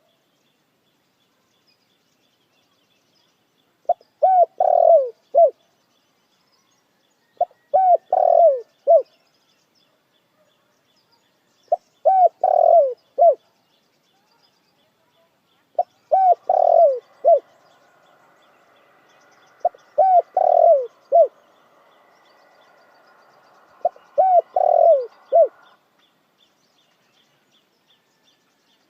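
Dove cooing: a short phrase of three or four coos repeated six times, about every four seconds.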